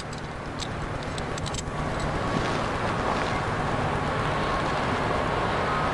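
A motor vehicle running, its engine and road noise swelling over the first two seconds, then holding steady.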